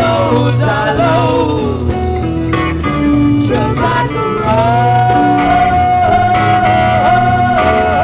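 Live psychedelic rock band playing, with electric guitar lines bending in pitch over bass and drums, and a long held note from about halfway.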